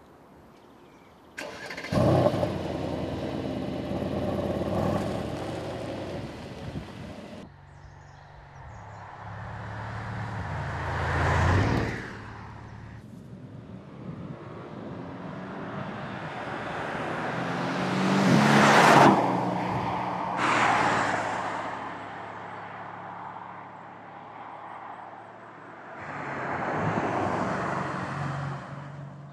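Mercedes-AMG GLC 63 S's 4.0-litre twin-turbo V8 starting up with a loud flare of revs about two seconds in and settling to a steady idle. After that the car drives past three times, its engine and exhaust growing louder as it approaches and falling away after each pass.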